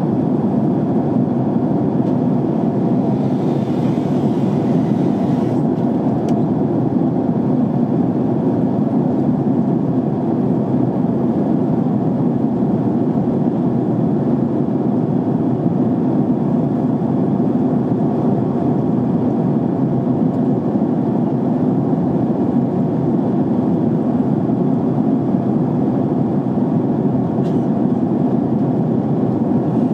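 Jet airliner cabin noise in flight: a steady, even rush of engine and airflow noise heard from a window seat.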